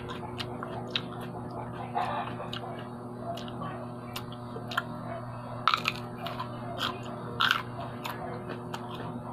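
A person chewing and biting a raw green pod with the mouth close to the microphone: wet mouth clicks and a few crunchy bites, the loudest about halfway through and again near the end, over a steady low hum.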